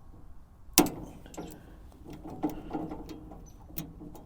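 Hand tools working the blade-tensioning fitting on a Frontier OS23 sawmill's band blade: a sharp metal knock about a second in, then a run of irregular clicks and clunks as the fitting is turned and tightened.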